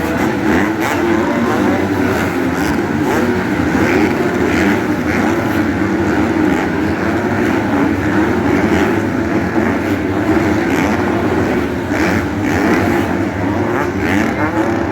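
Several motocross bikes racing on the track, their engines revving and easing off in a steady, loud mix.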